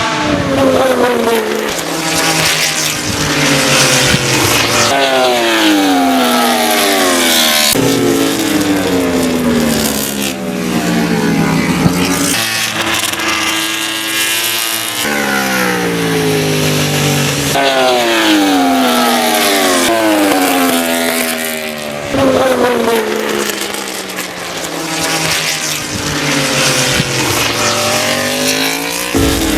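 MotoGP racing motorcycle engines at high revs on track, the engine note sweeping down in pitch again and again, breaking off and starting over, with a stretch of rising pitch near the middle.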